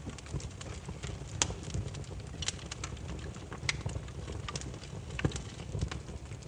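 Wood campfire crackling: irregular sharp pops and snaps of burning firewood, the loudest about a second and a half in and again near five seconds, over a steady low rumble of the flames.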